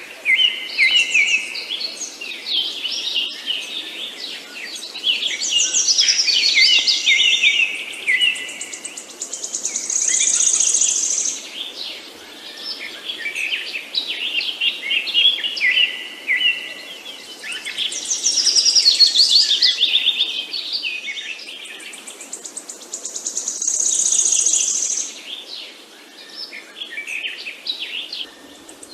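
Several songbirds chirping and singing in overlapping phrases of quick high notes and trills, swelling and fading every few seconds. A fast, high, buzzy trill comes twice.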